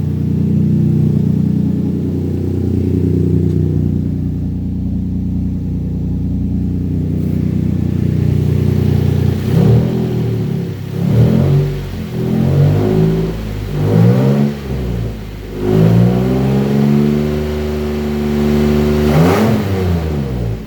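Engine from a 2008 Nissan Pathfinder with 160K miles, run on test. It idles steadily, then about halfway through it is revved in about five short blips. It then holds at a slightly raised speed and gets one more quick rev near the end.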